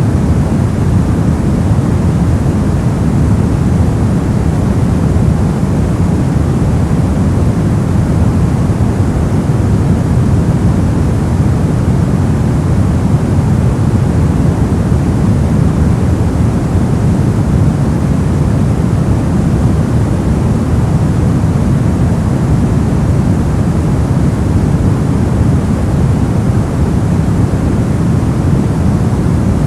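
Steady, unchanging noise sold as white noise, weighted toward the low end so it comes across as a deep, even rumble more than a bright hiss.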